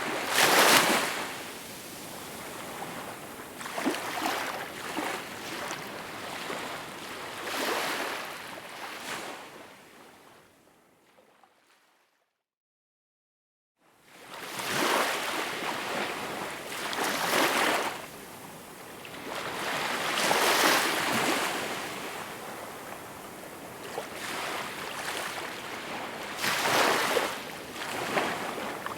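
Small waves washing ashore, a swell of surf every few seconds. Near the middle the sound fades out to complete silence for about two seconds, then fades back in.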